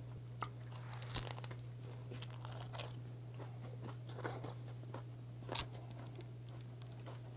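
Close-up chewing of a wrap of gwamegi, semi-dried Pacific saury, in fresh green leaves: a string of short, irregular crunches and mouth sounds, the sharpest about a second in and again near the six-second mark, over a steady low hum.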